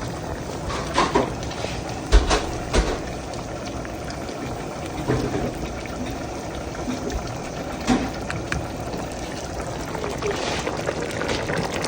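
Pot of fish and vegetables bubbling on the stove, with a few short knocks about a second in, around two to three seconds in and near eight seconds in.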